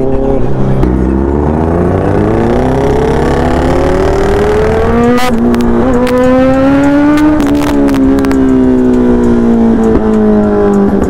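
Kawasaki Z900's inline-four engine pulling away under throttle: its pitch climbs, drops sharply at an upshift about five seconds in, climbs again, then falls slowly as the throttle is rolled off.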